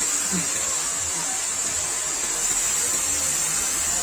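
Pressure washer at a motorcycle wash running steadily: a constant hiss of spray over a low motor hum.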